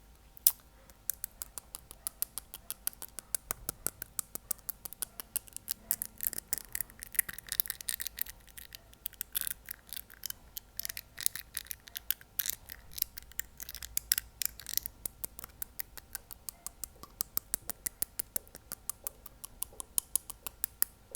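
A fingernail tapping on teeth, close to the microphone: rapid, uneven clicks, several a second, with brief pauses between runs.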